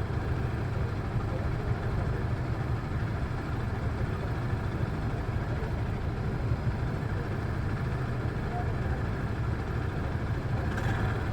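Motorcycle engine running steadily, a low even rumble.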